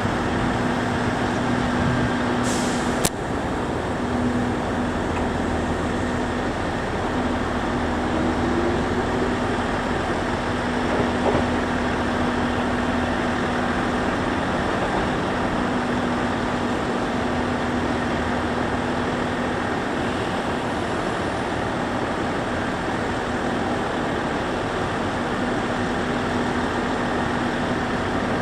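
Kintetsu electric train standing at the platform, its on-board equipment giving a steady hum, with a single sharp click about three seconds in.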